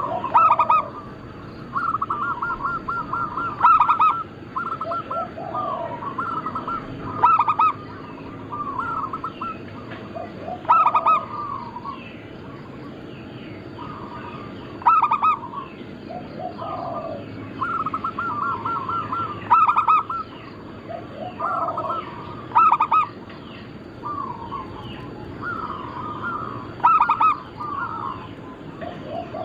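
Several zebra doves (perkutut) cooing at once, overlapping trilled coo phrases with a louder phrase every three to four seconds.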